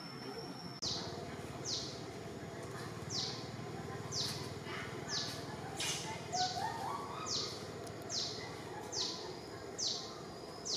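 A bird calling over and over: short high notes, each sliding downward, about one a second, starting about a second in.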